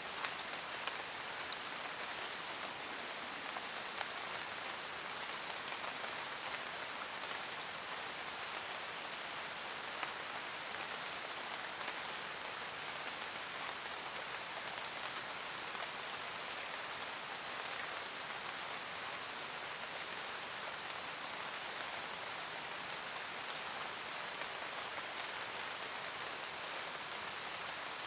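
Steady rain falling in a forest, an even hiss with scattered individual drops ticking on leaves.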